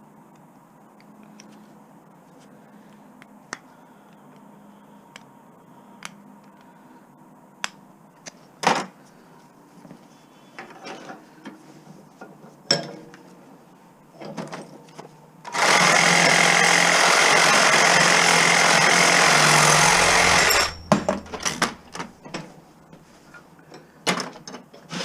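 Light clicks and knocks of hand tools on metal parts being taken apart, then a power tool running loudly and steadily for about five seconds past the middle before it cuts off, followed by more small knocks.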